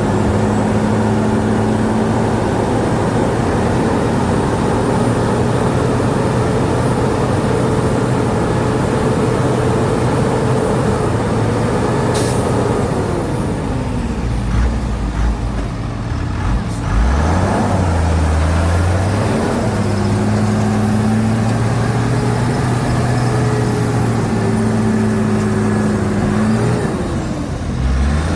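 Diesel engine of a Shantui DH17C2 bulldozer working under load. The engine note drops about 13 seconds in, then climbs back a few seconds later, with a brief sharp sound just before the drop.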